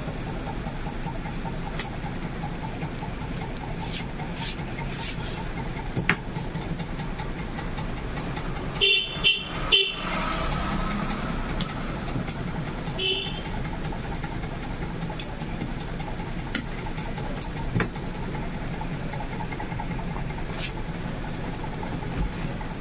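Steady street-traffic noise with scattered clicks and knocks, and a vehicle horn giving three quick toots about nine seconds in, then one more short toot a few seconds later.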